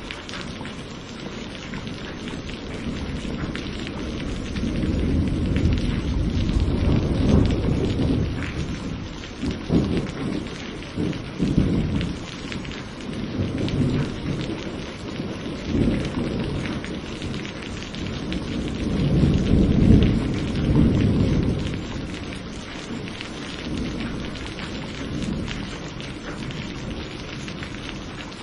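Steady rain with thunder rumbling in long low rolls: one builds a few seconds in and rolls on for several seconds, and another peaks about two-thirds of the way through.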